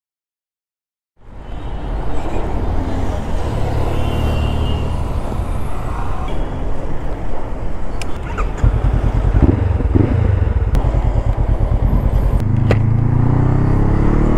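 Honda CB500F's parallel-twin engine running on the road, starting about a second in after digital silence; the engine note rises near the end as the bike accelerates.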